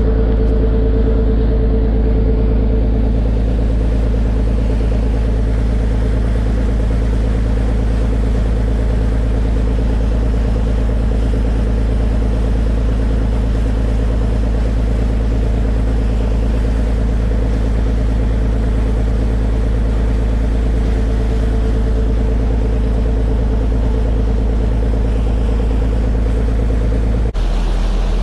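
Ferry boat's engine running steadily at a constant speed, a loud, even low drone. The sound shifts abruptly about a second before the end.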